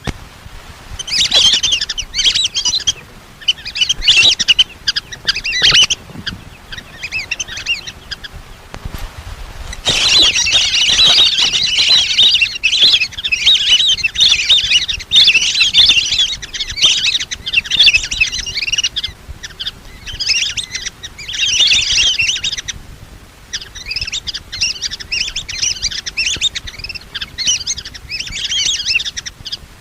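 Lesser whistling ducks calling: bouts of rapid, high, chattering whistles with brief lulls about a third of the way in and again past two-thirds. This is a decoy call recording meant to lure the birds in.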